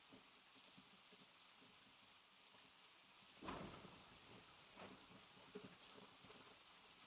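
Soft, steady rain with scattered drops pattering. About halfway through, a louder dull thud rises out of it, followed by two smaller ones.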